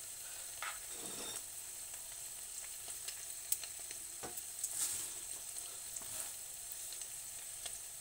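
Sardine and egg omelette frying in oil in a frying pan: a faint, steady sizzle with scattered small pops as the egg sets.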